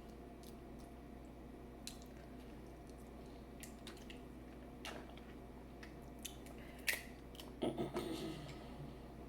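Soft wet squishing and scattered light clicks of a seafood boil being handled and eaten by hand, with a short, louder patch of crackling near the end.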